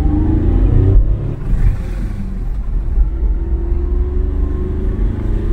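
Volkswagen Polo's diesel engine pulling under acceleration over a low rumble. Its pitch climbs, falls back about a second in, then climbs again. The car is picking up smoothly and quietly after repair.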